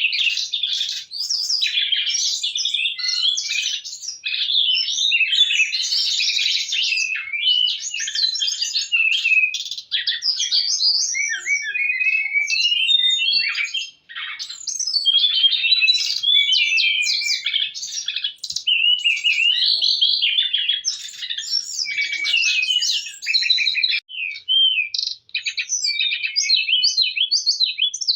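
A songbird, the bird the video calls SRDC, singing hard in a fast, nearly unbroken song of rapid chirps, trills and quick pitch sweeps, pausing only briefly a few times.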